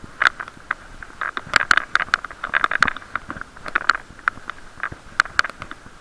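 Rapid, irregular clicks and knocks on a bicycle-mounted camera's waterproof case, several a second, over a muffled steady hiss of riding; the case muffles the sound and picks up every knock.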